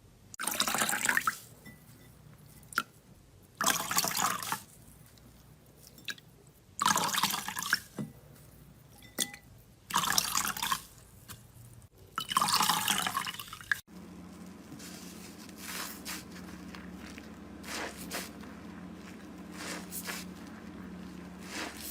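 Wet slime squelching in five bursts of about a second each, a few seconds apart. About two-thirds of the way in the sound changes abruptly to fainter, scattered wet crackles over a steady low hum.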